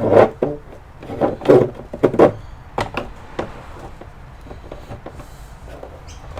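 Hard plastic parts of an all-in-one computer being handled and knocked during disassembly: a quick run of knocks and clicks in the first few seconds, then a few lighter ticks.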